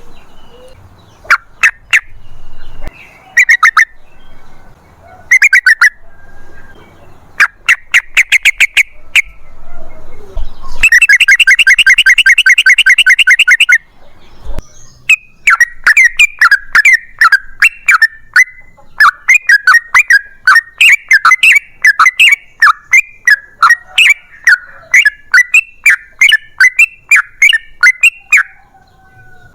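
Yellow-vented bulbul (trucukan) singing: short chattering phrases at first, then a dense rapid rattle of notes about eleven seconds in, followed by a long quick run of notes lasting until near the end.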